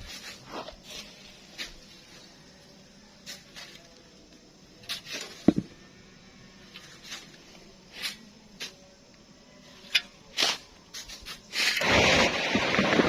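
Hand shovels scraping into fine sand and tossing it, heard as irregular short scrapes and knocks every second or so, then a loud rushing hiss of sand pouring near the end.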